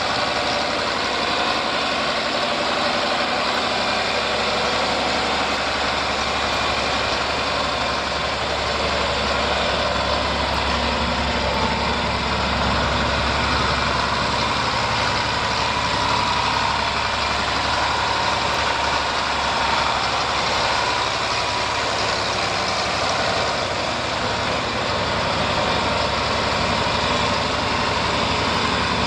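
John Deere 4020 tractor engine idling steadily.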